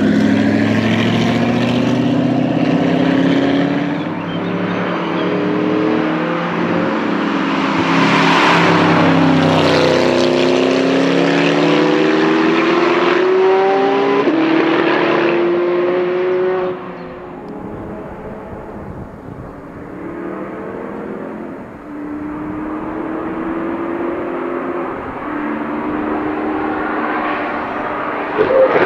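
Gumpert Apollo Sport's tuned Audi 4.2-litre V8 accelerating hard, its pitch rising and falling again as it shifts up through the gears several times. About 17 seconds in it drops to a quieter, more distant engine note, and a short sharp burst comes near the end.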